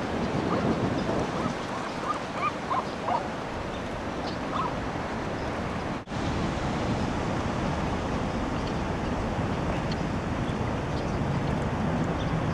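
Steady rushing wind noise on the microphone. In the first few seconds a handful of short bird calls sound, most likely from the gulls on the lake.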